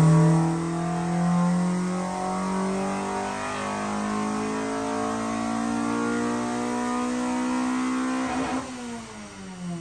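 Honda Civic VTi engine on a chassis dyno in a full-throttle pull, breathing through a generic header and a replica Spoon muffler, its revs climbing steadily toward about 8,000 rpm. About eight and a half seconds in the throttle is closed with a short crackle, and the revs fall away as it coasts down.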